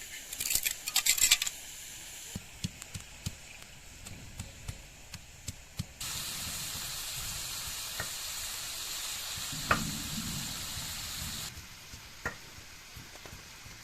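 Chicken curry frying in a pot. A loud crackling burst of sizzle comes about a second in, then scattered clicks of a utensil against the pot, then a steady sizzling hiss for several seconds with one dull knock partway through.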